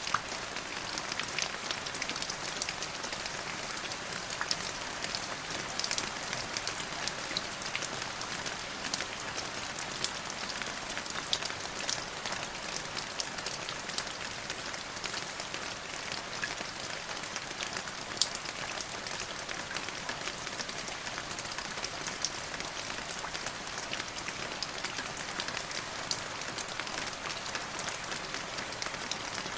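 Steady rainfall with many individual drops pattering on a surface, with no letting up or change.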